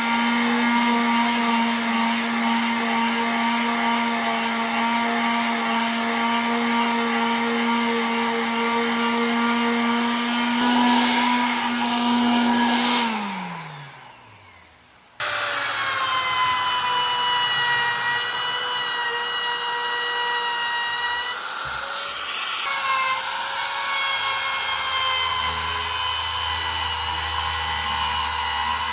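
An electric power tool's motor running at a steady whine, then spinning down and stopping about 13 seconds in. After a brief pause, another power tool's motor starts suddenly and runs steadily at a different, higher whine.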